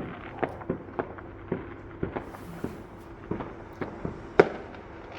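Fireworks going off in the distance: scattered sharp bangs and pops at an irregular pace, the loudest a little past four seconds in.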